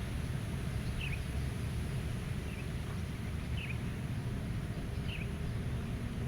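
Meadow ambience: a steady low rumble of wind with a small bird giving four short, falling chirps, roughly one every second or so.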